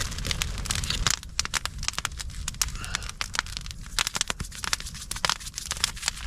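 Campfire of wood and coals crackling, with many sharp irregular pops and snaps over a low steady rumble.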